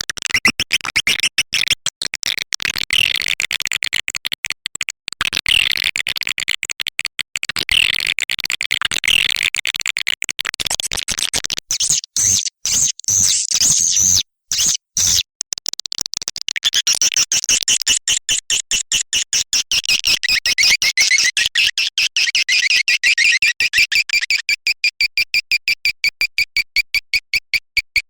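Swiftlet call recording of the kind played to lure swiftlets into a nest house: a fast, high chirping twitter made of rapid repeated pulses, with a short break about halfway through.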